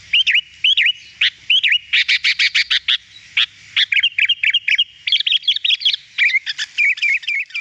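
Sooty-headed bulbul (kutilang) singing continuously, with rapid runs of short sharp chirps mixed with short curving whistled notes.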